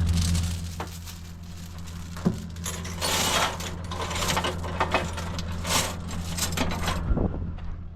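A truck engine's steady low drone, with irregular rattling and clinking over it that eases off near the end.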